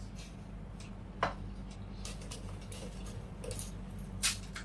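Small clicks and crunches of fuchka being cracked, filled and eaten, with two sharper clicks, about a second in and near the end, over a steady low hum.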